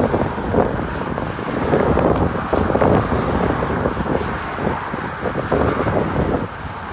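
Cars driving past with wind buffeting the microphone: a loud, gusty rumble throughout.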